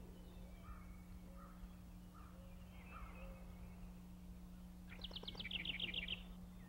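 Faint wild birdsong, with scattered chirps and about five seconds in a rapid trill of about ten sharp notes in just over a second, over a steady low hum.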